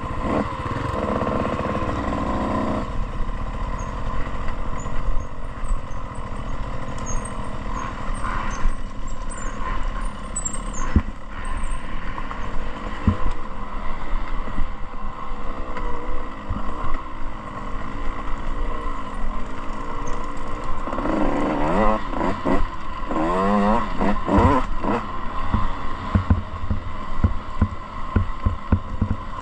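Dirt bike engine running under way, with its pitch swinging up and down as the throttle is worked about three-quarters of the way through. Short sharp knocks and rattles come from the bike over rough ground.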